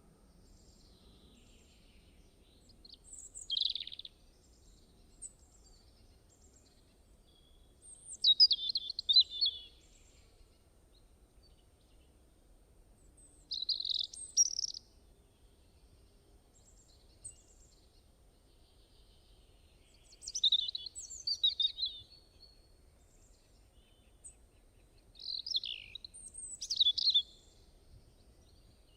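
Bird song: five short bursts of quick, high chirping phrases, each one to two seconds long, about five seconds apart, over a faint low background hum.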